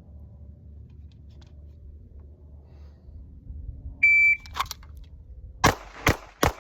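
A shot timer beeps once as the start signal for a Bill Drill. About a second and a half later a Walther PDP pistol fires three shots in quick succession, about half a second apart, as the first rounds of a five-round string.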